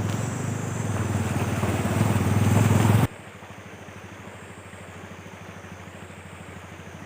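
Motorcycle engine running with rushing wind noise, cutting off suddenly about three seconds in to a much quieter steady hum.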